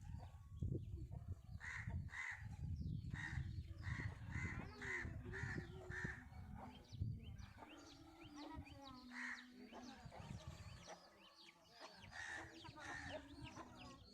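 Crows cawing in a run of evenly spaced calls, about two a second, then a few more caws later on. Small birds chirp throughout the second half, over a low rumble.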